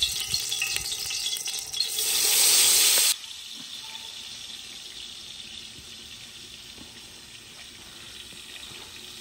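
A loud hiss as something is let go into a hot cooking pot over a fire. It swells and then cuts off suddenly about three seconds in, leaving a quieter steady sizzle.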